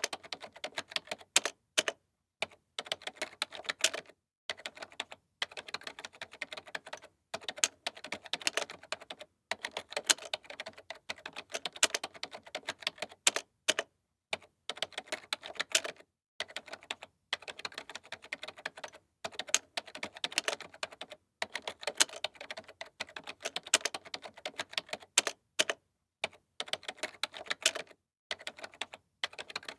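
Computer keyboard being typed on fast: rapid key clicks in runs of a second or two, with short pauses between them.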